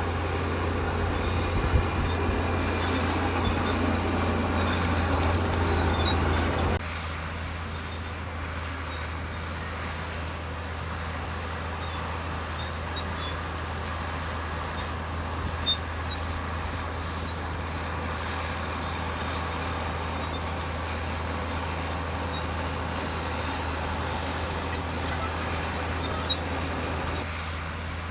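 Komatsu D65EX bulldozer's diesel engine running steadily with a deep hum, with a few sharp clanks here and there. About seven seconds in the sound drops abruptly to a quieter, thinner running.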